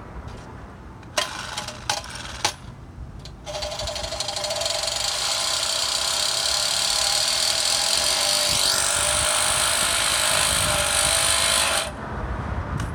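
A few sharp knocks, then a handheld power tool working metal, running steadily for about eight seconds before cutting off suddenly.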